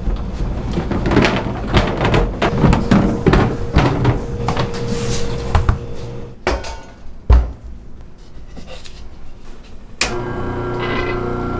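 Repeated knocks and clunks of objects being handled, with one heavy thump about seven seconds in; a steady machine hum starts about ten seconds in.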